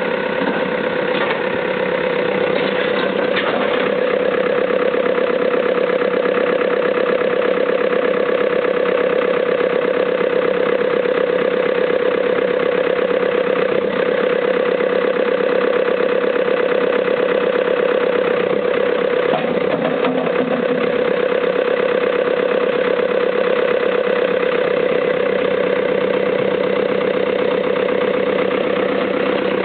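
Diesel engine of a 2004 CAT 432D backhoe loader running steadily, growing louder over the first few seconds and then holding an even note.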